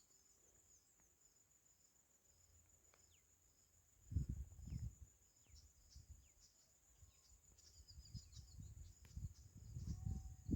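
Crickets chirping faintly: a steady high trill with a pulsed chirp repeating about twice a second. Low muffled rumbles come in about four seconds in and again near the end.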